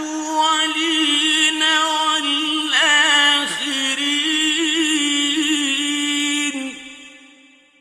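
A male reciter chanting the Quran in a slow, melodic tilawa. He holds a long ornamented note at a steady pitch, breaks briefly about halfway, and stops about two-thirds of the way through, leaving an echo that dies away.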